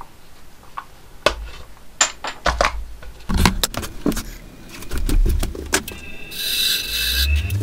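Workshop handling noises: a string of knocks and clicks as tools and parts are moved, then a short hiss near the end and a motor starting up with a steady low hum.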